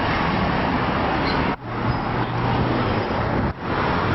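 Steady road and engine noise of a moving car recorded by a dashcam, dense and loud with a low hum. It drops out briefly twice, about a second and a half in and again near the end.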